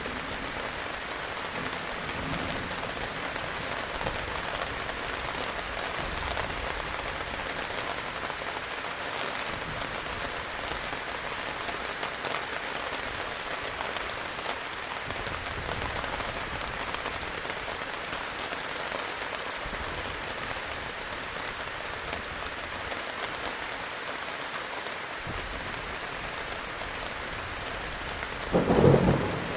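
Heavy rain falling steadily, an even hiss. Just before the end comes a short, loud thunderclap.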